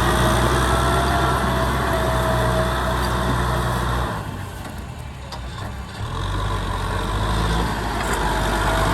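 Kubota M6040 SU tractor's four-cylinder diesel engine running steadily. About four seconds in it goes quieter for a couple of seconds, then comes back up.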